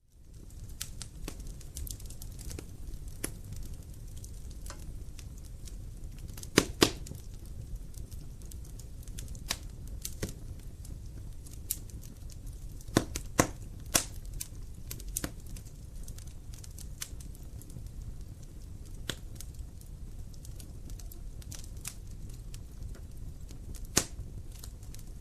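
Wood fire burning in a fireplace: a steady low rumble with irregular crackles and a few sharper pops of the burning logs.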